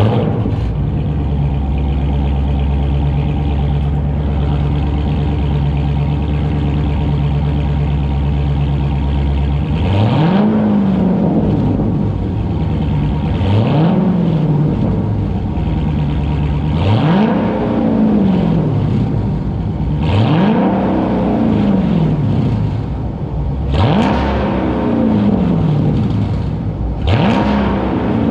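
Dodge Charger HEMI V8 with a mid-muffler delete idling steadily just after a warm start, then blipped six times, each rev rising and dropping back to idle. It is loud.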